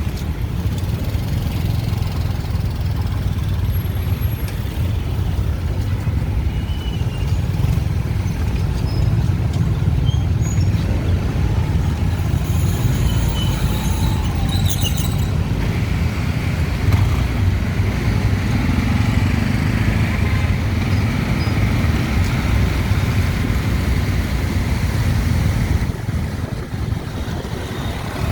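Dense city traffic of motorbikes, cars and tuk-tuks: a steady, loud rumble of engines and tyres that keeps up throughout and eases slightly near the end.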